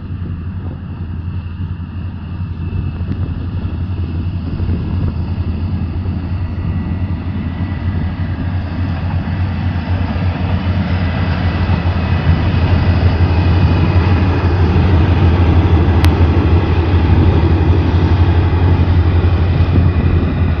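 Diesel passenger train running across a long concrete railway viaduct, a steady rumble of engine and wheels that grows gradually louder as it approaches. There is one sharp click about sixteen seconds in.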